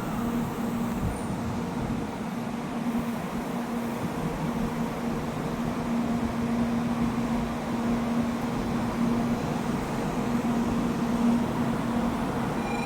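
Railway station platform ambience: a steady rumbling hum with a low droning tone that fades in and out.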